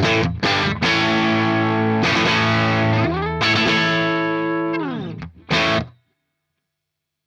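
Apollo Les Paul-style electric guitar through an overdriven Fender Blues Junior IV tube amp, captured through a reactive load and a 4x12 V30 speaker impulse response with no room sound. Sustained distorted chords, then notes sliding down in pitch about three and a half seconds in, one last short chord, and the sound cuts off suddenly about six seconds in.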